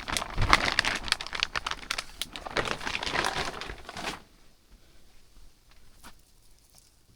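Plastic sheeting crinkling and rustling as it is handled for about four seconds, then it stops.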